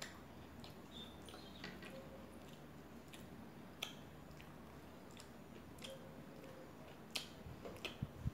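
Close-miked chewing of a crispy fried snack: soft, irregular crunching clicks with short pauses, and a few sharper crunches near the end.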